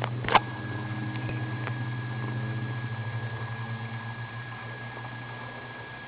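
Kitten purring close to the microphone: a low, steady, pulsing purr that fades out over the last couple of seconds. A single sharp click comes about a third of a second in.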